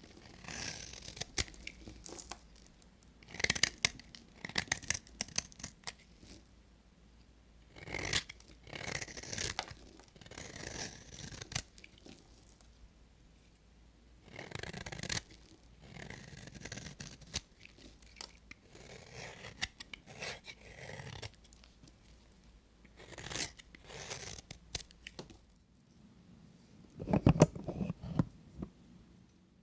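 A knife cutting through dry bar soap: crisp, crunchy cutting strokes in bursts every few seconds, with a heavier cut near the end.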